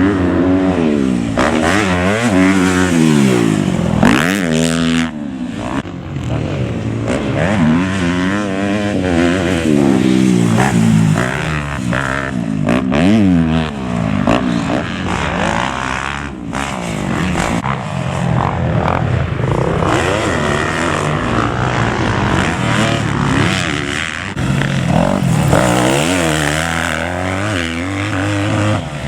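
Motocross bikes revving hard and shifting, the engine pitch rising and falling over and over as they ride the track, with a second bike's engine overlapping at times.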